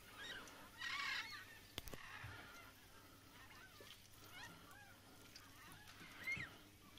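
Faint bird calls: a honking call about a second in, then scattered short chirping calls, with one sharp click just before two seconds.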